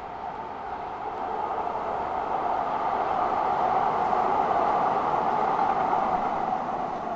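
Jet airliner passing on the runway, its engines a steady rushing noise that swells to a peak about five seconds in and then begins to fade.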